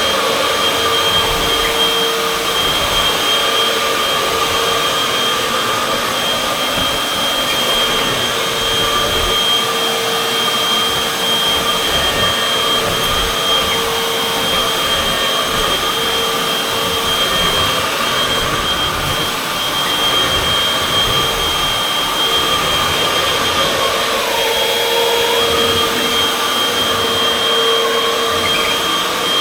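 Upright vacuum cleaner running steadily with a constant whine. About 25 seconds in, the pitch dips briefly, the stopped-up sound that comes from vacuuming laminate floors.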